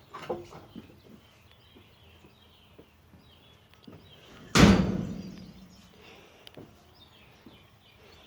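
A wooden chicken-coop door banging once about four and a half seconds in, ringing briefly as it dies away, with light knocks and rustling before it.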